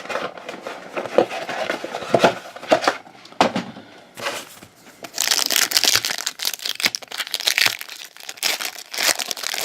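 Trading-card pack wrappers being handled and torn open. Scattered rustles and clicks come first, then from about five seconds in a dense crinkling and tearing, with a second shorter spell near the end.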